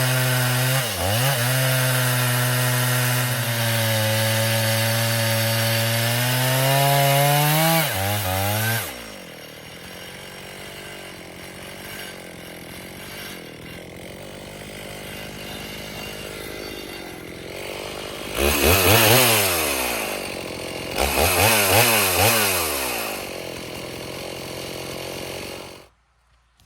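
Two-stroke chainsaw on an Alaskan chainsaw mill cutting through a pine log under load, its pitch sagging briefly near the start and climbing toward the end of the cut about eight seconds in. It then drops to idle, is revved twice, and shuts off just before the end.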